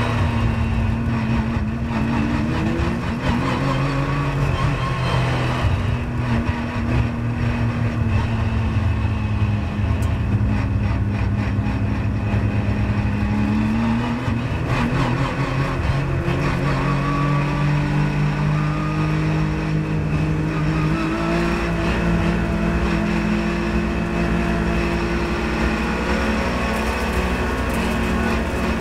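Porsche 997.1 GT3 Cup's flat-six engine heard from inside the cockpit, running steadily at low road speed with small rises and dips in pitch, then revving up near the end as the car accelerates.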